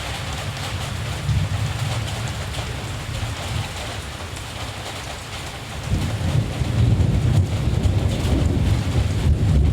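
Steady rain falling with a low rumble of distant thunder beneath it; the rumble swells louder about six seconds in.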